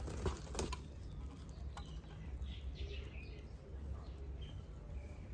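Faint bird chirps over a low outdoor rumble, with a few light clicks in the first two seconds.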